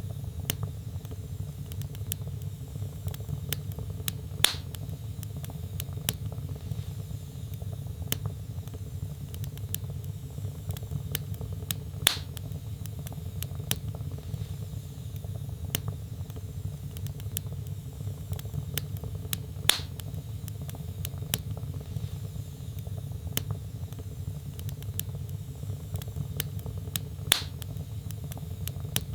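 Wood fire in a fireplace with logs burning: a steady low rumble of flames and a constant light crackle. Four louder, sharp pops come at even spacing, about every seven to eight seconds.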